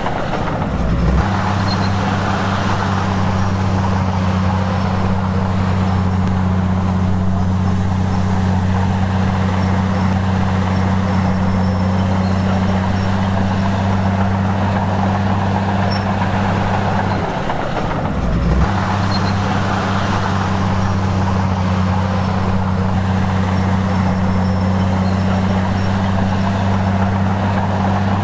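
Heavy construction-machine diesel engine running steadily with a constant low hum, which breaks off briefly twice: about a second in and about two-thirds of the way through.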